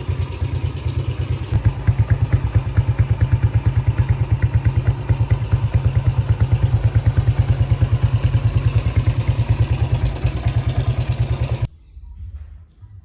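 Suzuki Shogun 110R's single-cylinder four-stroke engine running steadily at idle with an even, rapid putter. It cuts off suddenly about a second before the end.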